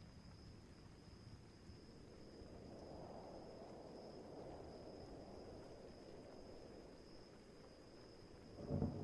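Night rain-and-thunder ambience, faint: a low rumble swells and fades under a steady high chirring of crickets, and a louder rumble of thunder starts near the end.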